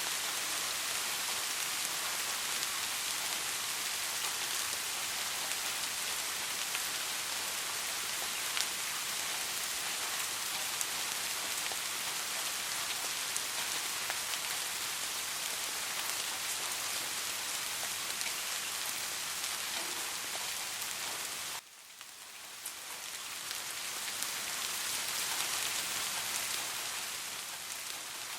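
Steady soft rain: a dense, even patter of drops with fine individual drop ticks. About three quarters of the way through, the sound drops away suddenly and then swells back up over a few seconds.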